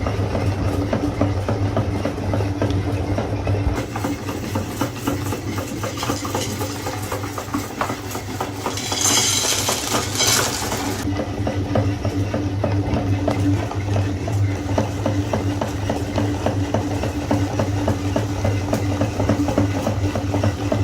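Electric meat grinder running with a steady motor hum, with continuous crunching and crackling of hard candy being ground; the grinding grows harsher for a couple of seconds about nine seconds in.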